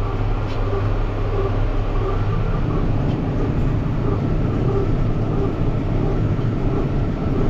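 International 1066 tractor's turbo-diesel six running steadily under load as it pulls a New Holland Hayliner small square baler through hay, with the baler working behind it.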